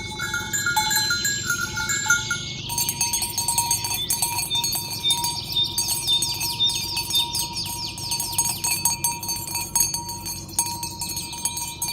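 Cowbells on herded cattle clinking and jangling irregularly, over steady high chirping.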